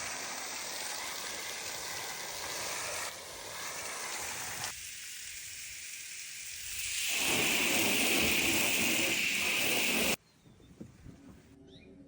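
Water spraying in a steady hiss that shifts in tone a few times, growing louder about seven seconds in, then cutting off suddenly about ten seconds in.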